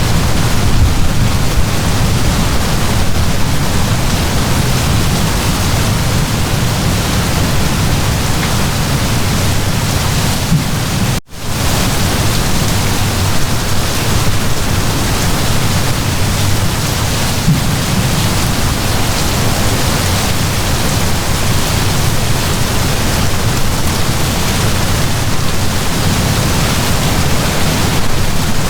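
Heavy downpour of rain, a steady dense hiss. It cuts out for a split second about eleven seconds in.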